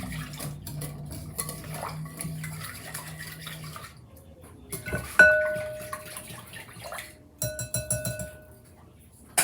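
A utensil stirring wet batter in a bowl, clicking and scraping against the sides, then striking the bowl with a single ringing clink about five seconds in, followed by a quick run of smaller clinks.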